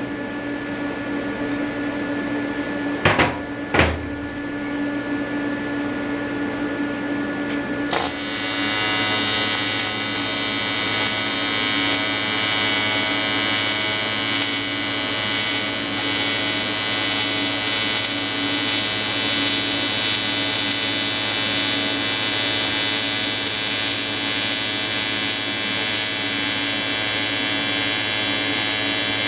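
AC TIG welding arc from an Everlast 325EXT on square wave buzzing steadily while welding an aluminium intercooler. The buzz starts abruptly about eight seconds in, after a steady hum and two short clicks.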